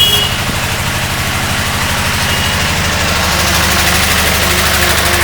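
Engine coupled to a dynamo, running steadily with an even low pulse; a little past halfway it gets slightly louder and brighter. A brief click sounds right at the start.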